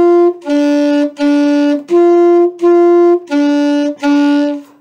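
Saxophone playing a sol–mi exercise in short, evenly spaced separate notes. One higher note ends just after the start, then come pairs of notes: two low, two high, two low. The two pitches are a minor third apart.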